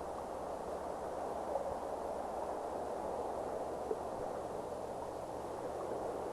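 Steady, even hiss of ambient noise, with a low hum beneath it and a few faint ticks.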